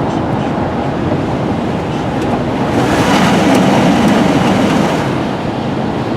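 Car road noise inside the cabin: tyres hissing on a wet road, swelling louder for a couple of seconds in the middle.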